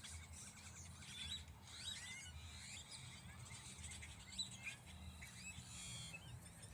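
Several small birds chirping and calling, many short quick notes overlapping, faint, over a low steady rumble.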